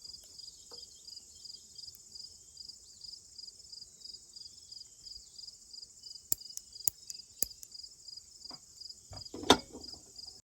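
Steady insect trilling, pulsing about two to three times a second. A few sharp clicks come past the middle, and a loud knock near the end.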